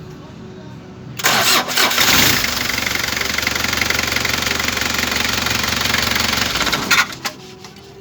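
Kia Bongo 3's diesel engine cranked by its starter for about a second, then catching and running steadily for about five seconds before the sound drops off near the end.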